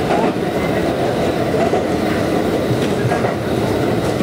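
Konan Railway electric commuter train running along the line, heard from inside the passenger car: a steady rumble of wheels on rails and car-body noise.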